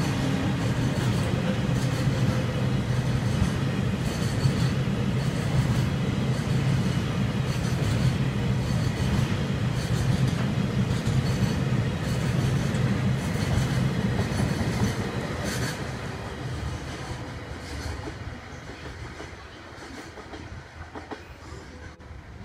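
Freight train of oil tank wagons rolling past close by, a steady rumble and clatter of wheels on the rails. The noise fades over the last several seconds as the train draws away.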